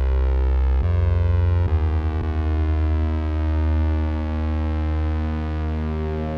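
Doboz DVNA synthesizer holding a deep, sustained drone of many layered steady tones. It shifts to a new pitch about a second in and again near two seconds in, with a brief wobble after the second change.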